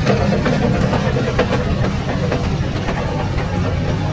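Busy city street traffic: a vehicle engine running steadily close by, with a few faint clicks over it.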